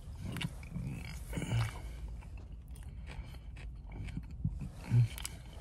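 A person chewing a forkful of spicy chicken salad close to the microphone, with small wet mouth clicks. Two short, low bumps stand out, one about a second and a half in and a louder one near the end.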